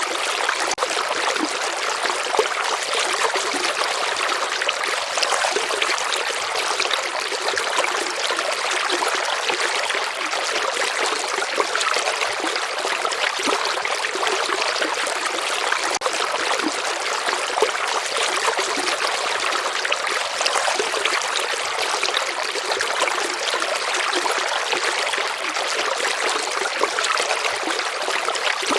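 River water flowing steadily over a shallow bed, a constant rushing hiss with small trickles and splashes in it and hardly any low rumble.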